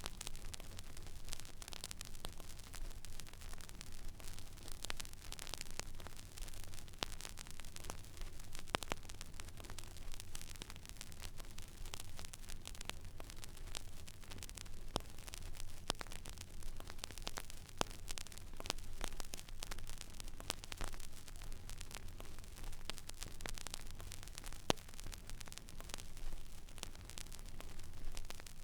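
Stylus riding the silent groove of a vinyl record: steady surface hiss with irregular crackles and pops, over a low steady hum.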